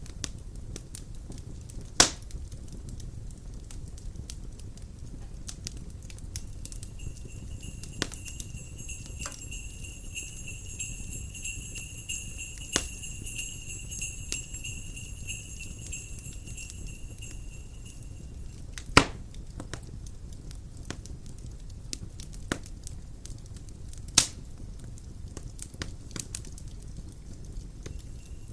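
Log fire crackling in a fireplace, with a few sharp loud pops, over a steady low rumble of wind. Jingle bells ring steadily from about a quarter of the way in until about two-thirds through, then start again at the very end.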